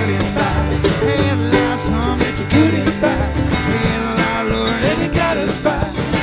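Live band playing an upbeat country-rock song, guitars over bass and a steady drum beat, with no vocal line standing out.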